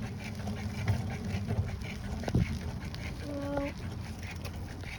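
A single short honking call from a waterfowl about three seconds in, held on one pitch, over a steady low rumble.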